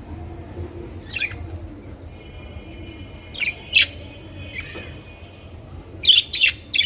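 Budgerigars chirping in short, sharp calls, with a held buzzy tone for a few seconds in the middle and a quick run of three loud chirps near the end.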